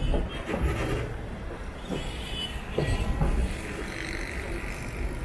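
Passenger train running: a steady rumble with irregular knocks from the wheels and carriages.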